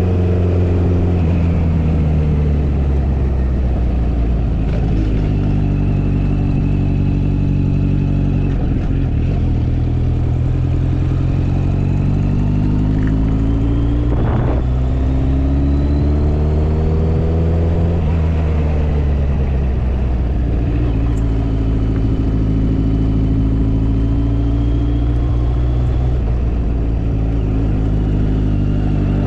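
Motorcycle engine running while riding, its pitch rising and falling several times as the throttle opens and closes.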